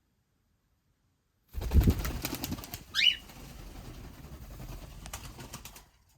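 Cockatiel wings flapping in a sudden flurry about a second and a half in, followed about a second later by one short chirp that slides up and down. A lower steady rustle carries on until it cuts off just before the end.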